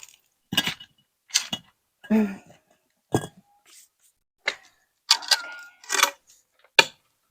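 A series of separate knocks and clatters, about eight spread unevenly over several seconds with silence between them: things being handled and set down.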